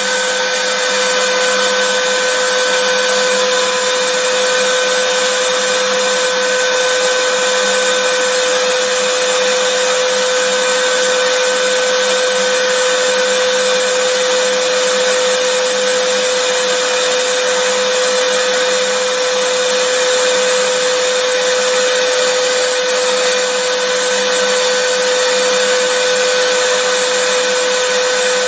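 Vacuum cleaner motor running steadily: an even, unbroken rush of air with a constant motor whine, no change in speed.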